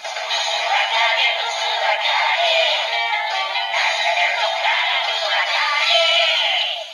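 Yo-kai Watch Dream toy's small speaker playing a medal's summoning song with synthesized singing, thin and lacking bass.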